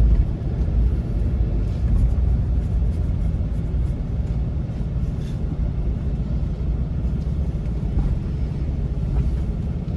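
TYM T574 compact tractor's diesel engine running steadily under way, a deep, even rumble.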